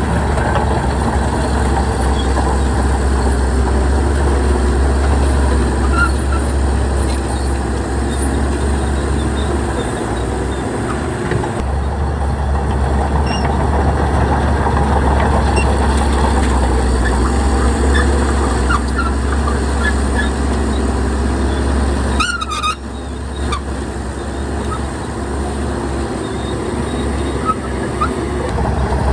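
Shantui bulldozer's diesel engine running steadily with a strong low hum, with a brief high-pitched squeal about 22 seconds in.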